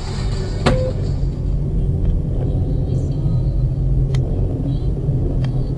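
A car driving, with a steady low rumble of engine and road noise and a few short clicks.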